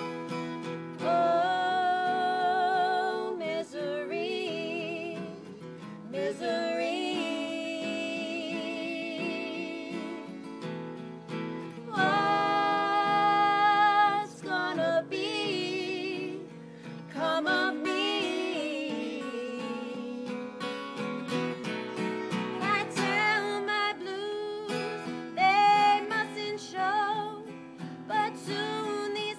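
A voice singing a slow song with vibrato over acoustic guitar accompaniment.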